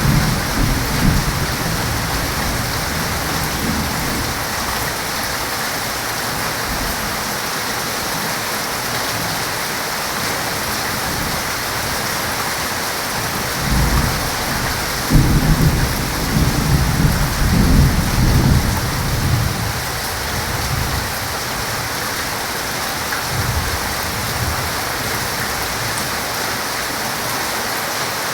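Heavy rain falling with a steady hiss, with thunder rumbling at the start and a longer, louder rolling peal of thunder from about halfway through that dies away some five seconds later.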